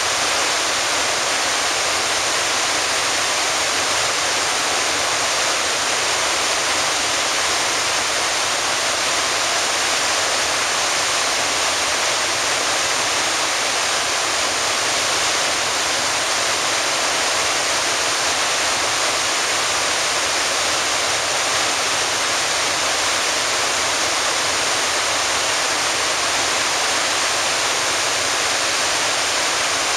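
Iguazu Falls' waterfalls rushing: a loud, steady, unbroken sound of falling water.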